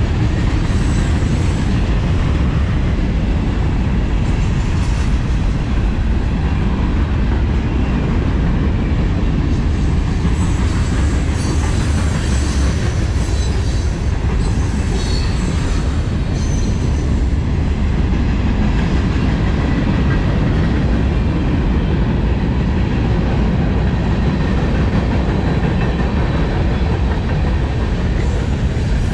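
Freight cars of a passing train rolling by: a steady rumble and clatter of steel wheels on the rails, with a few brief high wheel squeals about halfway through.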